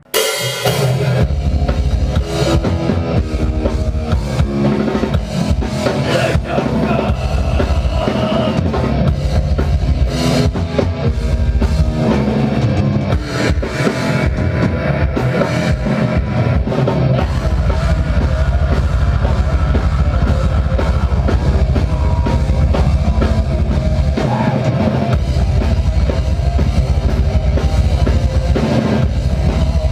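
Metal band playing live at full volume, with a drum kit pounding a fast bass drum under the band. It crashes in suddenly at the start.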